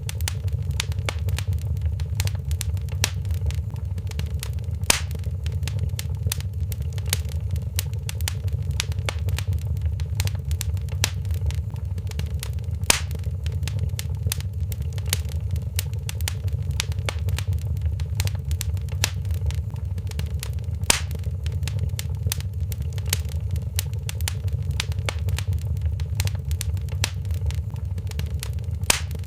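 Wood fire crackling in a fireplace: constant small snaps and pops over a steady low rumble, with a few louder pops about every eight seconds.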